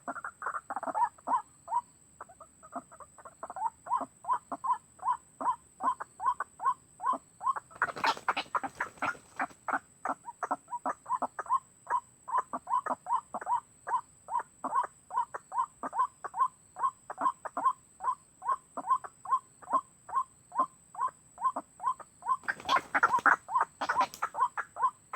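White-breasted waterhen call repeated steadily, short notes at about three a second, as used to lure the birds. Twice a brief rush of noise passes over it.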